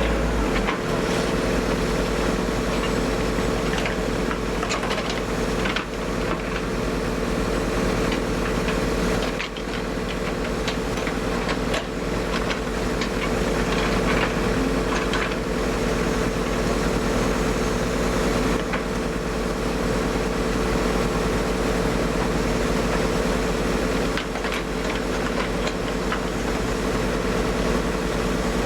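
Hyundai 140LC-7A excavator's diesel engine running steadily while the machine works, with occasional short clanks.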